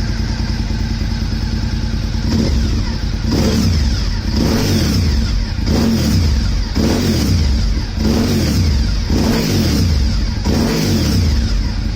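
Honda RVT1000R's V-twin engine through a LeoVince aftermarket muffler, idling and then blipped about eight times, each rise in revs falling back to idle.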